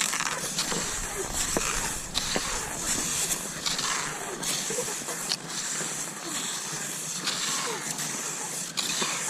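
Cross-country skis gliding and crunching over snow in a steady striding rhythm, with about one sharp swish or crunch a second over a continuous hiss.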